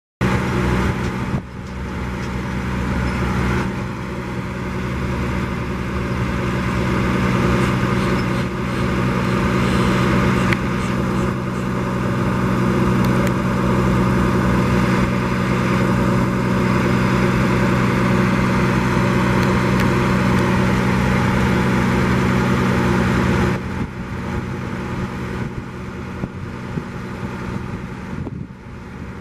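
Diesel engine of a 2011 Freightliner M2 grapple truck running steadily with a low, even hum, then dropping abruptly to a quieter level about 23 seconds in.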